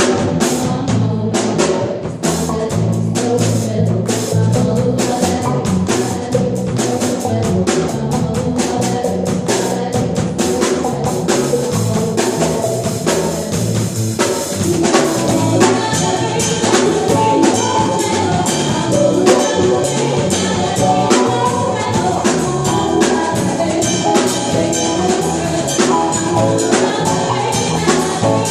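A live band playing an up-tempo number: a drum kit keeps a busy, steady beat over bass and other instruments.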